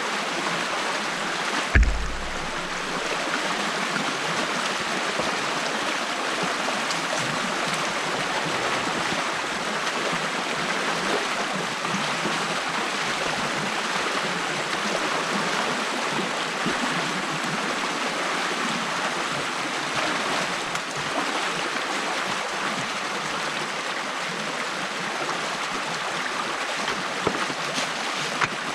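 Stream water flowing steadily through a breach in a beaver dam that is being opened by hand. A single low thump about two seconds in.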